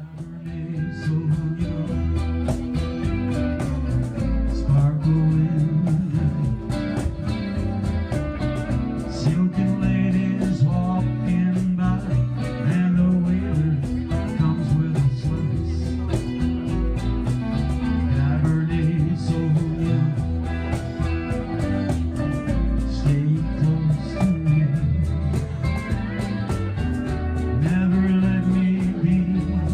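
Band music: guitar over a moving bass line and drums, coming in suddenly at the start.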